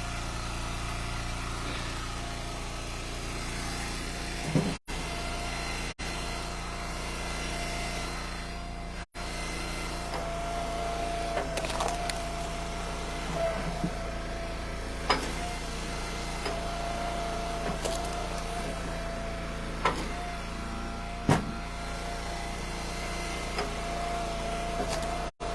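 Gas-engine hydraulic log splitter running steadily, with a steady whine joining in about ten seconds in and a few sharp knocks scattered through. The sound cuts out briefly several times.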